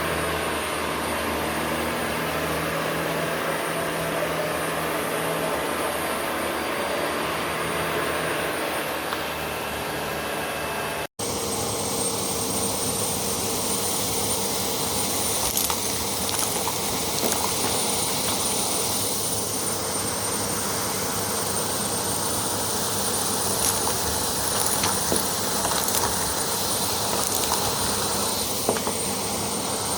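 Vacuum cleaner motor running steadily. About eleven seconds in the sound cuts out for an instant, then a vacuum runs on with a steady high whine.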